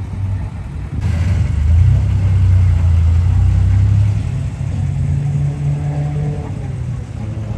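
A vehicle's engine with a deep, steady rumble that grows louder about a second in, then rises in pitch around five seconds in before easing off.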